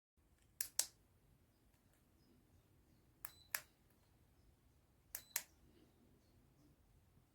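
Three pairs of short, sharp clicks, each pair a quick double click, spaced about two seconds apart against a quiet room.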